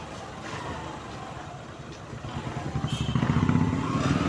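Motorcycle engine running, growing louder from about three seconds in.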